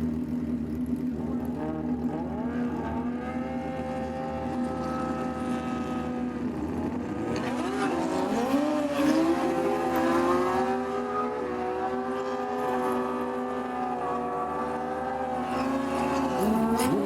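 Drag-racing motorcycle engines running at a steady pitch, with revs rising about two and eight seconds in.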